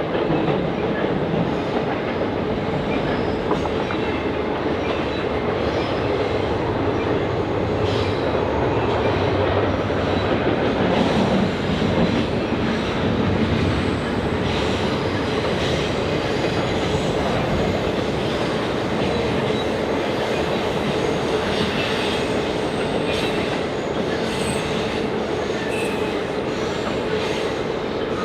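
Train rolling past with a steady rumble of steel wheels on rail, occasional clicks at rail joints and a faint, steady wheel squeal.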